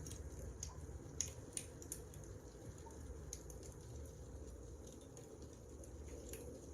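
Wood fire burning: a faint, steady low rumble with scattered sharp crackles and pops, the two loudest a little over a second in.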